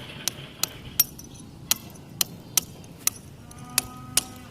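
Hammer and chisel cutting into the brickwork of a 4-inch roof parapet wall: sharp, irregular strikes, about two a second, with a brief metallic ring after one strike near the end.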